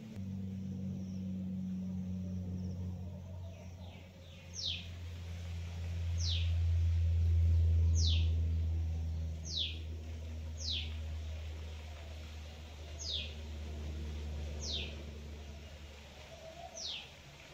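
A bird calling repeatedly: about eight short, high whistles, each falling sharply in pitch, coming every one to two seconds from a few seconds in. Under them runs a steady low hum.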